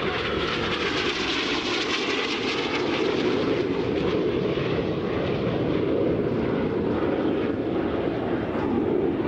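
BAE Hawk T1 jet trainers flying a display pass, their turbofan engines making a steady rushing jet noise; the high hiss dulls a little about halfway through.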